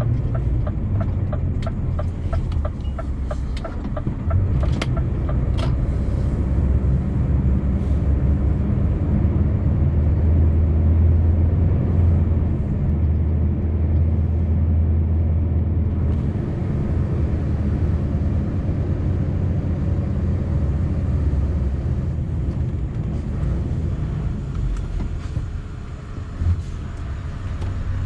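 Scania V8 truck engine running on the move, heard from inside the cab as a steady low rumble that builds around ten seconds in and eases after about sixteen. A quick, even ticking sounds over it for the first six seconds or so.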